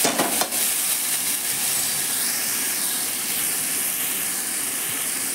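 Onion, capsicum and tomato masala sizzling with a steady hiss in hot oil in a kadhai as boiled noodles are tipped in, with a couple of soft knocks at the start as they land.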